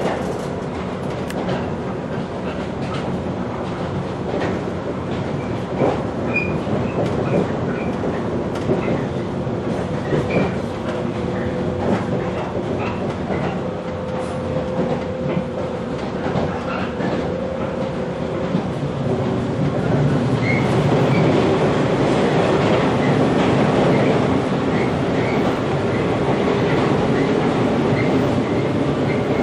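Inside a JR 115-series electric train running along: the hum of its MT54 traction motors under the steady running noise, with the clickety-clack of wheels over rail joints. It gets a little louder about two-thirds of the way through.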